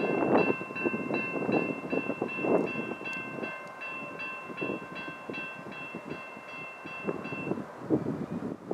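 Railroad crossing bell ringing at about three strokes a second over the rumble and clatter of a passing train. The bell stops a second or so before the end.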